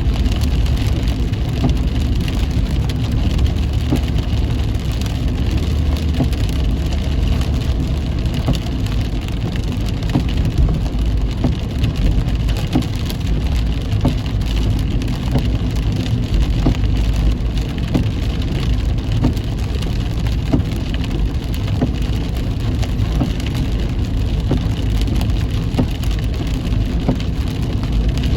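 Heavy rain pattering on a car while driving, a steady stream of drop hits over a continuous low road and engine rumble.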